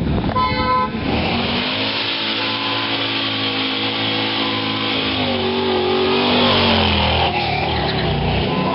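A car engine revving and held at high revs for several seconds, its pitch shifting up and down about halfway through.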